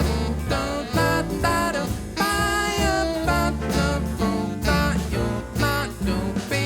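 Instrumental break in a swing-style band arrangement: a lead instrument plays the melody over walking bass and drums.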